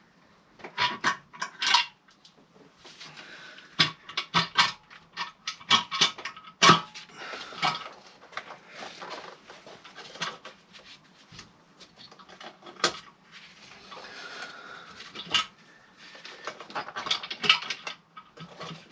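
Metal hand tools and loose engine parts clinking, tapping and knocking irregularly while bolts and fittings are worked loose on a Mondeo ST220 engine.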